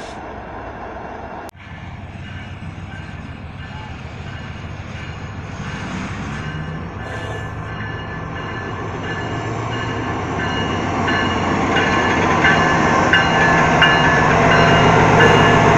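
Heavy freight train led by diesel-electric locomotives approaching, its engine rumble growing steadily louder.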